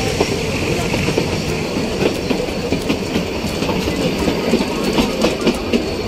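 Nilgiri Mountain Railway toy train carriage running along the track, heard from inside at an open window: a steady rumble with irregular clicks and clatter from the wheels.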